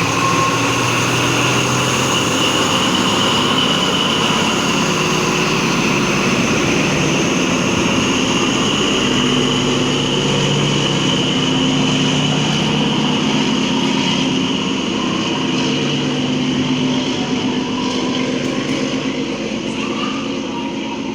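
XPT diesel train's Paxman engines in its power cars running hard as the train pulls away: a steady, loud diesel drone with a high whine over it, easing off slightly near the end.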